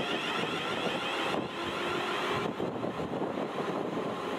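A train running past on the main line: a steady rushing rumble with a faint hum.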